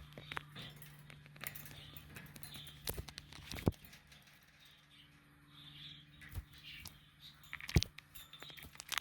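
Pet budgerigars chattering softly amid many small clicks and taps of beaks, feet and cage parts, with two louder knocks, one a little before halfway and one near the end, over a steady low hum.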